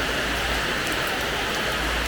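Steady rain falling on a terrace floor: a dense, even hiss with faint scattered drop ticks, over a low rumble.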